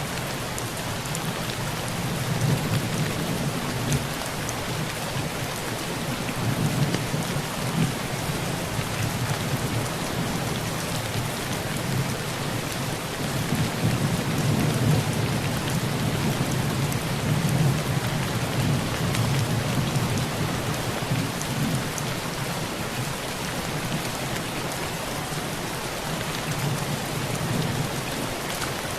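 Heavy rain drumming steadily on a tin roof, with low rolling thunder that swells and fades several times underneath it.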